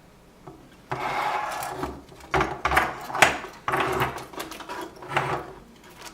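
A series of scraping, rubbing strokes, about five over a few seconds, starting suddenly about a second in.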